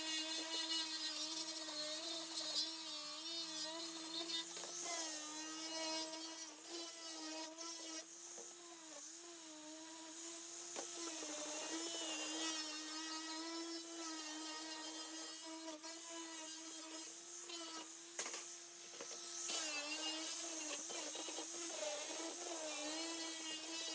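Small electric power tool running steadily with a whine whose pitch wavers and dips slightly as it works under load.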